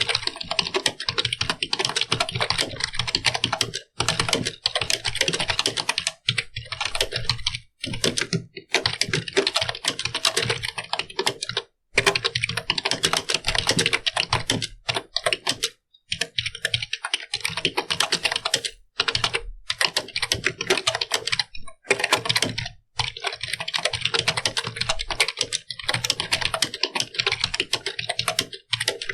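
Computer keyboard being typed on fast and continuously: a dense stream of key clicks, broken by brief pauses every few seconds.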